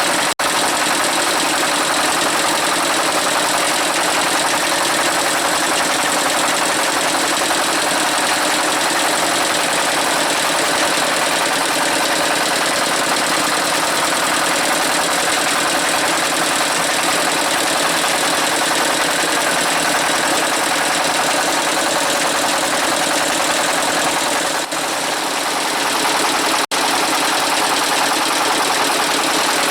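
Small boat's engine running steadily, a loud even drone, with a brief dip about 25 seconds in.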